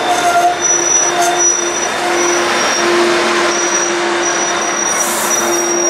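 Train passing close by: a steady loud rush of wheels on rail, with a thin high-pitched wheel squeal that comes and goes.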